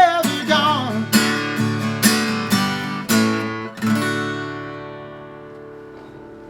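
Acoustic guitar playing the last few strummed chords of a song, the final chord ringing out and slowly fading. A held sung note with vibrato ends within the first second.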